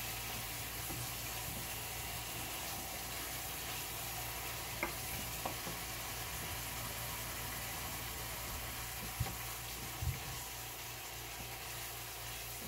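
Tomato and ginger masala sizzling steadily in a deep nonstick pan over a gas burner as it cooks down. A few light clicks of the spatula against the pan come about five seconds in and again near ten seconds.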